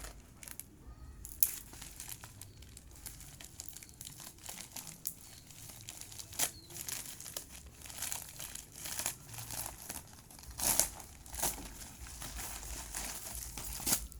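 Parcel wrapping crinkling continuously as it is handled and torn open by hand, with several louder sharp crackles.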